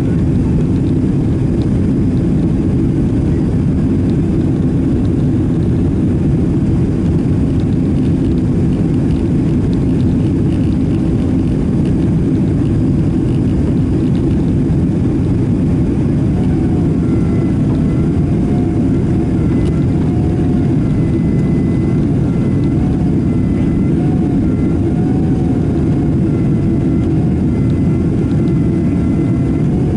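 Steady, loud cabin noise inside a Boeing 767-300ER airliner: a deep rumble of engines and airflow. About halfway through, a faint, slightly wavering tone joins it.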